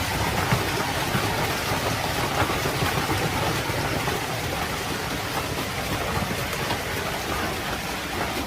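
Heavy hailstorm: large hailstones falling continuously and striking hard surfaces, a dense steady noise made of countless small impacts. It fades out near the end.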